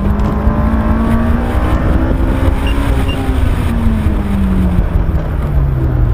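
Honda S2000's high-revving four-cylinder engine heard from inside the car, running at a steady pitch with heavy wind and road noise, then its note dropping steadily for the last second and a half as the car slows.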